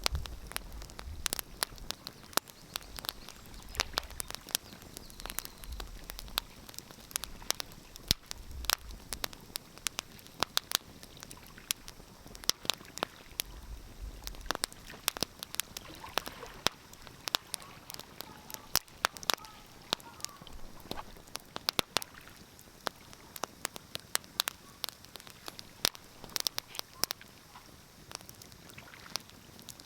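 Wood fire crackling: irregular sharp pops and snaps, several a second and some much louder, over a soft steady hiss.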